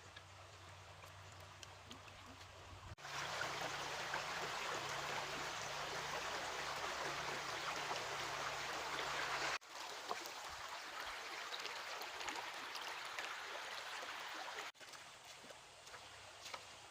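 Flowing stream water, a steady rushing haze that comes and goes at hard cuts, loudest for several seconds in the middle and fainter at the start and end.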